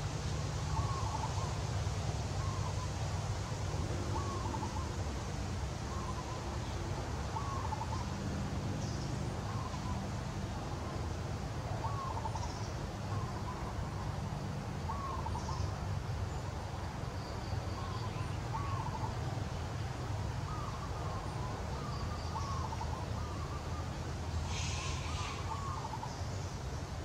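A bird repeating a short call about once a second, over a steady low rumble, with a brief burst of high chirping near the end.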